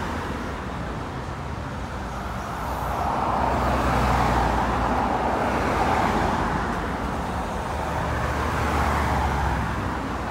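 Road traffic going by: vehicles passing one after another, their tyre and engine noise swelling and fading several times, with a low engine hum under the louder passes.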